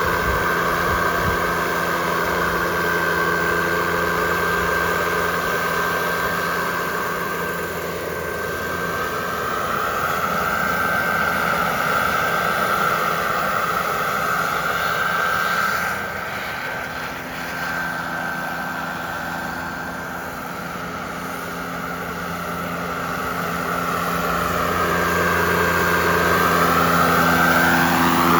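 Turbine engine of a radio-controlled model jet in flight: a steady high whine over a low hum, growing louder and fainter as the plane passes, with sweeping shifts in pitch.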